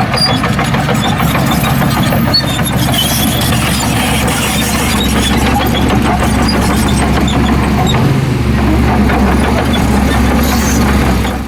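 Heavy diesel engine of earthmoving machinery running steadily and loud, with a continuous rattle over the low engine note.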